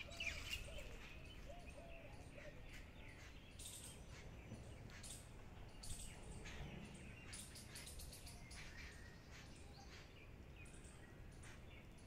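Birds chirping faintly in the trees, many short scattered calls, over a steady low outdoor rumble.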